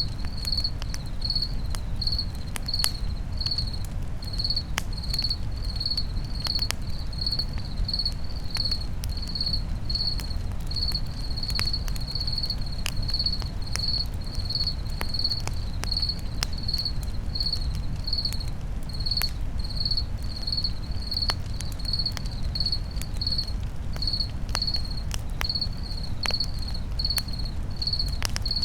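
A cricket chirps steadily in short high chirps, about one and a half a second. Beneath it a campfire crackles with scattered small pops over a low, steady rumble.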